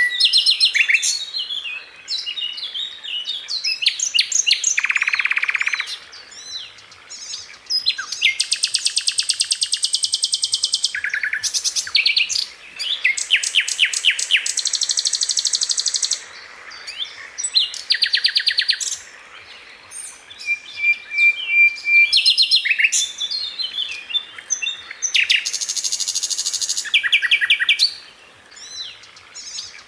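Sikatan londo flycatcher singing: rapid, tightly packed trills and rattling phrases of fast repeated high notes, one to three seconds each with short gaps, and a brief steady whistle about two-thirds of the way through.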